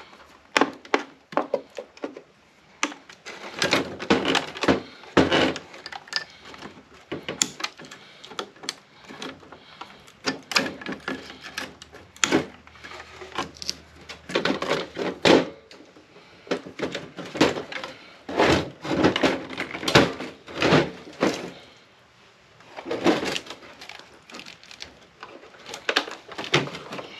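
Irregular clicks, knocks and clatter of hand tools against the plastic case and metal parts of an APC battery backup unit being taken apart, as wires are cut and the battery is worked at.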